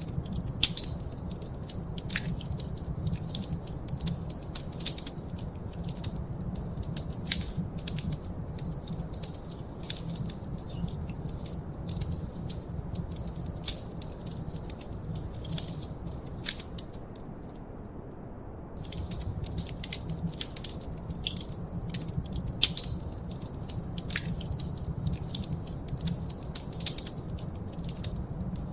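Wood fire in a fireplace crackling, with frequent sharp pops and snaps over a steady low rumble of the flames. The crackling stops for about a second just past the middle, then resumes.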